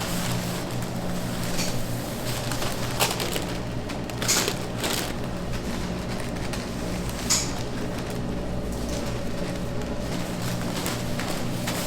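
Steady low machine hum in a bakery workspace, with a few sharp clicks and knocks of utensils or trays: about three seconds in, twice around four to five seconds in, and once past seven seconds.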